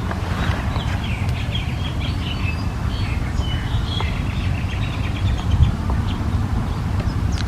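Small birds chirping in quick, short, high notes, many calls overlapping, over a steady low rumble.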